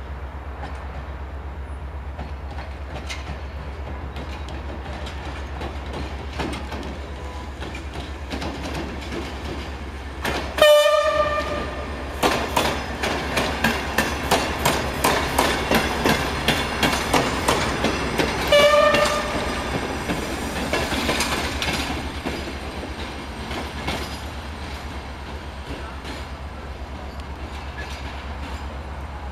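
A passenger train passes. Its horn gives a short blast about a third of the way in and another some eight seconds later. In between, the wheels clack over rail joints about twice a second.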